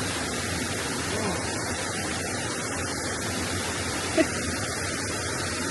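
Steady rushing of a waterfall, an even roar of falling water, with one brief short voice sound about four seconds in.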